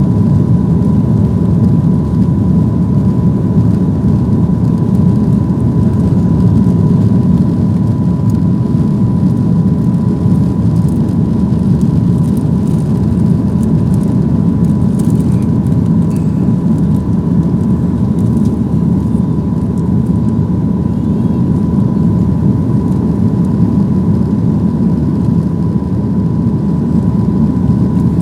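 Boeing 737-800 cabin noise from inside the cabin: the jet's CFM56 turbofan engines running at steady high power, a dense even rush with a thin steady whine above it.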